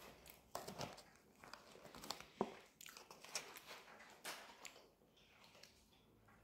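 Quiet chewing and wet mouth sounds of a person eating, with lip smacks and small irregular clicks; one sharper click about two and a half seconds in.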